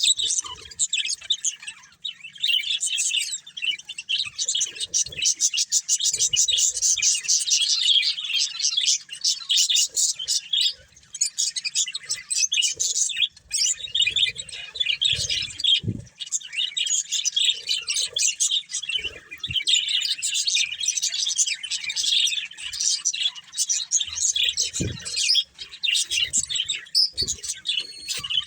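A breeding pair of budgerigars chattering and chirping in rapid, almost continuous warbling runs, with only brief pauses.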